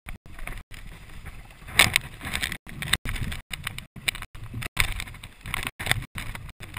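Log flume boat riding along its water channel: irregular water sloshing and rumbling, with the recording cutting out for split seconds many times.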